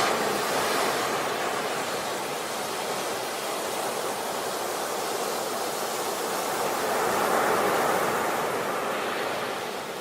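Ocean waves washing in: a steady rushing noise that swells about a second in and again around seven to eight seconds.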